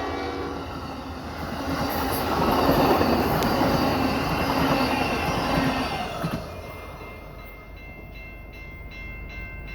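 Amtrak passenger train led by a P42DC diesel locomotive passing at speed: the tail of its horn fades out at the start, then a rushing roar builds and is loudest from about two to six seconds in. After that it drops to a fainter rumble with a regular clicking of wheels over rail joints as the train moves away.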